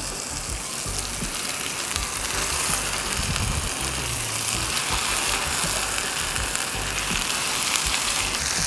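Spice paste frying in oil in a nonstick pan, a steady sizzle, as raw skin-on chicken pieces are laid into it; the sizzle grows a little louder about two seconds in. The paste has been fried until dark, the stage at which the chicken goes in.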